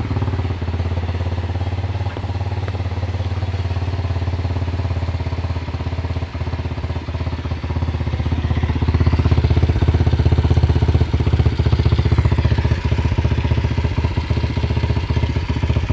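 Pit bike engine running at a steady idle, a little louder from about nine to thirteen seconds in.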